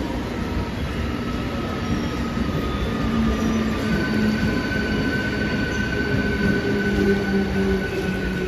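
Mumbai suburban electric local train (EMU) running past along the platform: a steady, loud rumble of the moving cars and wheels, with a high steady tone setting in about halfway through.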